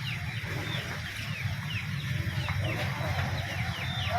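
Many caged birds at a bird market chirping, a busy chatter of short, falling chirps, over a steady low background rumble.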